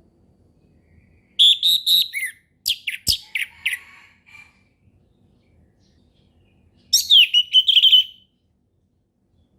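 Orange-headed thrush singing: two loud bursts of quick, sharp whistled and slurred notes, the first starting about a second and a half in and running about three seconds, the second about seven seconds in and lasting about a second. A single sharp click sounds about three seconds in.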